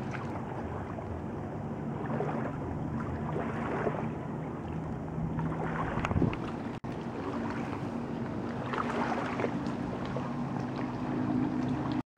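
Motorboat engine running steadily, a low drone with wind buffeting the microphone. It breaks off for an instant about seven seconds in, and the pitch of the drone shifts after that.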